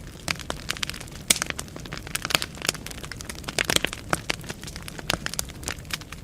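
Wood fire burning in a fireplace: irregular crackling and sharp pops of burning logs over a low steady rumble, with a few louder snaps and a cluster of pops a little past the midpoint.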